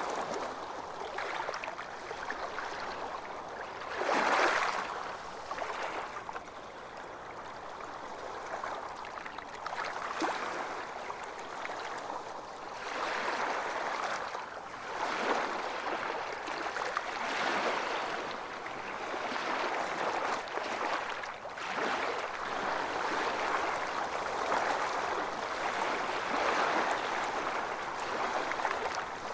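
Ocean surf washing onto a beach: a continuous rush of water that swells and eases with each wave, the loudest surge about four seconds in.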